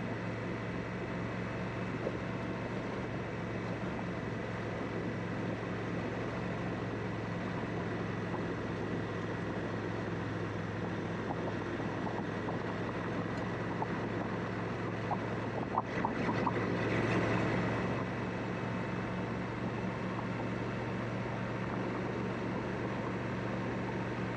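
Honda Africa Twin's parallel-twin engine running at a steady speed under the noise of riding. About two-thirds of the way through, a few clicks and a brief swell of rushing noise.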